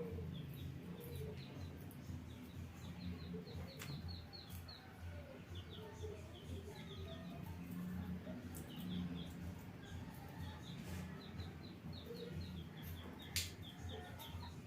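Small birds chirping in quick repeated short notes in the background over a steady low hum, with a sharp click about 4 s in and a louder one near the end.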